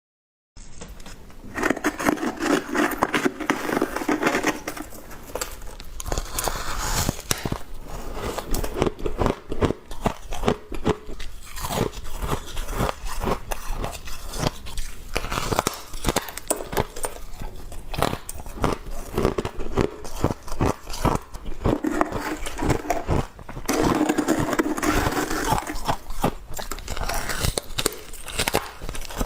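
Close-up crunching and chewing of frost: a dense, uneven run of sharp crackles and crunches, with louder, fuller bites now and then.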